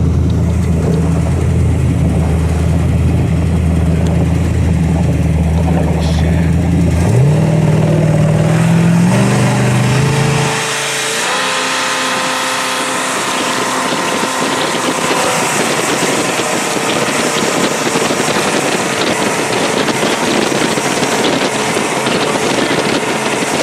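Jet boat engine running with a low, steady hum that rises in pitch about seven seconds in as it speeds up. A few seconds later the deep hum drops away, leaving a higher engine whine under rushing wind and water noise as the boat runs fast.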